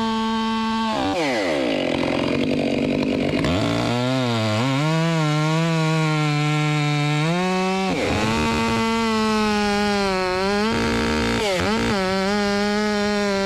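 Chainsaw running at high speed, then dropping sharply in pitch about a second in as it is loaded in a cut. The pitch stays lower and wavering for several seconds, rises again around eight seconds and dips briefly once more near the end.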